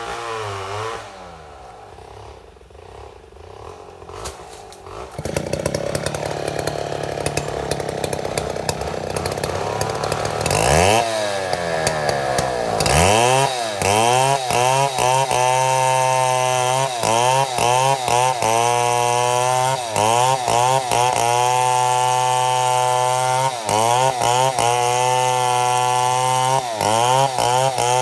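Chainsaw milling mahogany into slabs. Its engine drops back to a lower speed at first, then revs up sharply about eleven seconds in. It then runs at high speed under load, its pitch dipping briefly again and again.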